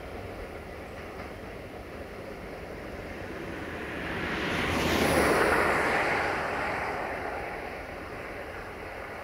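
Freight train's covered wagons rolling along the track, a steady rumble that swells to its loudest about five seconds in and then fades away.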